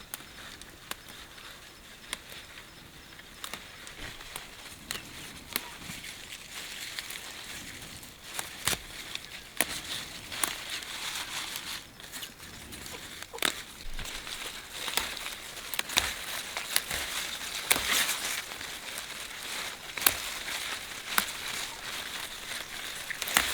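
Irregular light clicks and crackling rustles, growing busier and louder about eight seconds in.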